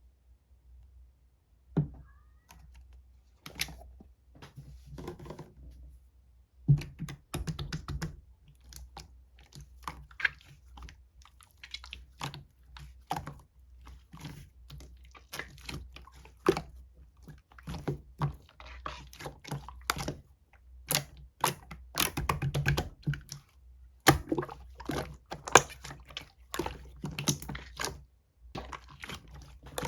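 Irregular bursts of small clicks and light knocks, like keys being typed or small objects being handled on a desk.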